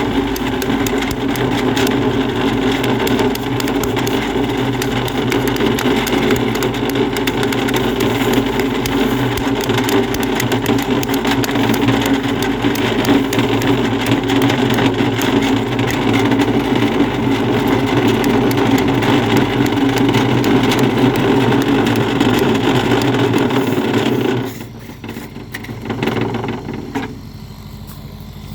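A motor engine running steadily, which drops away sharply about 24 seconds in, leaving a quieter background.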